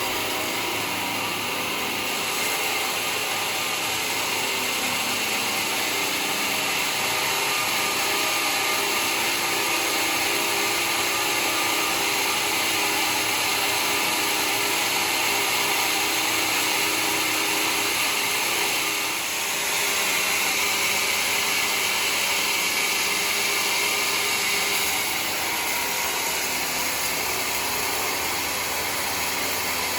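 Sawmill blade running steadily through mahogany, a continuous loud saw-and-motor noise that rises slightly about two seconds in and dips briefly about two-thirds of the way through.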